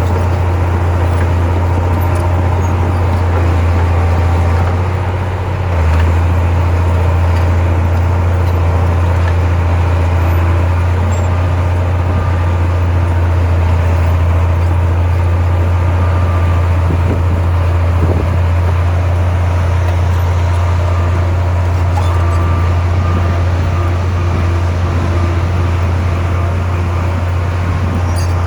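Heavy diesel engine of earthmoving machinery running steadily with a deep drone, dipping briefly about five seconds in.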